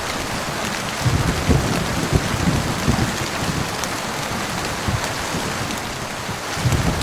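Steady rain falling on a surface, with a low rumble of thunder that swells about a second in and again near the end.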